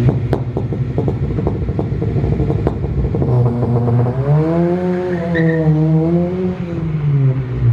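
Honda Civic EP3 Type R's four-cylinder engine revving hard as the car is launched away. About three seconds in, a high, held engine note takes over, wavering up and down before fading near the end.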